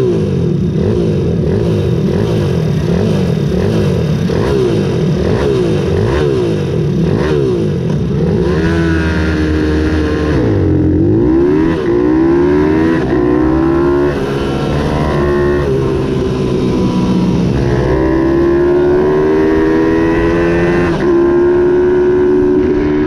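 Ohvale 110 minibikes' small single-cylinder four-stroke engines racing flat out: several engines revving together at first, then one engine standing out, its pitch climbing and falling with the gears, dropping sharply about eleven seconds in and then climbing again to hold high near the end.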